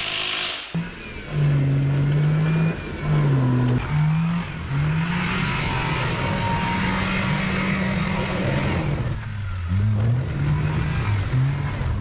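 Kei truck's small engine revving up and easing off again and again as it drives, its pitch rising and dropping in short steps over a steady rushing noise.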